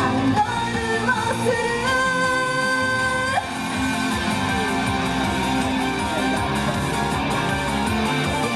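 Idol pop song with sung vocals over a guitar-driven band backing. One long note is held from about two seconds in and breaks off at about three and a half seconds, and the backing carries on.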